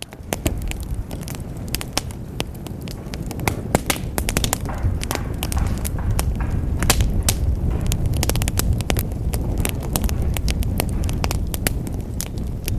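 Wood fire crackling in a fireplace: frequent sharp pops and snaps over a steady low rumble of the flames.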